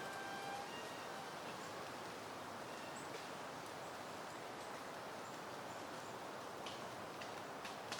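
Soft, steady wind rustling through leafy garden plants. A few faint, high bird chirps and light clicks come through, with a short pitched call near the start.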